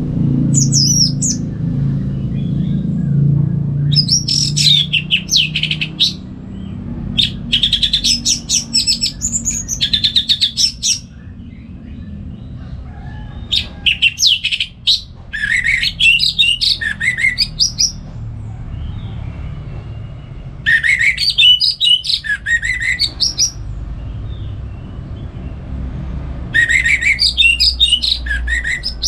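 Orange-headed thrush singing in loud bursts of fast, varied whistled phrases a few seconds long, six times with short pauses between. A steady low rumble runs underneath.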